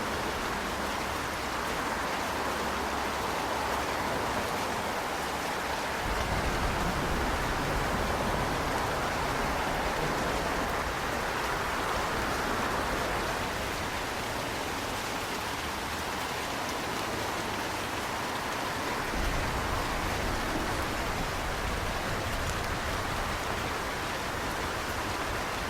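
Steady rain falling, a continuous even hiss, with a low rumble underneath that grows stronger at times.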